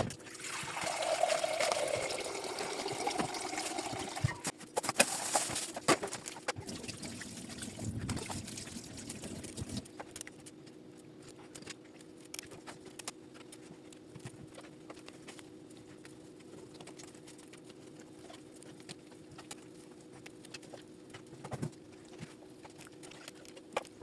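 Water running into a kitchen vessel for about four seconds, then a few sharp knocks of kitchen utensils. After that a low steady hum continues under scattered small clinks and taps of kitchen handling.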